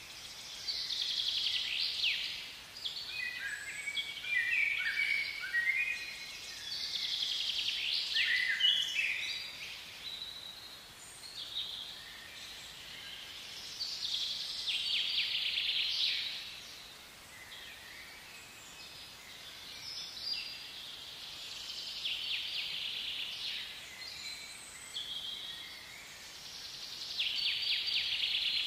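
Birds singing: high chirps, fast trills and short stepped runs of notes, in phrases a few seconds apart.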